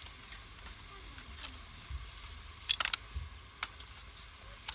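Campfire cooking: a few sharp crackles and clicks, a small cluster of them about three seconds in, over a faint sizzle of vegetables and meat frying in a pot and a low rumble.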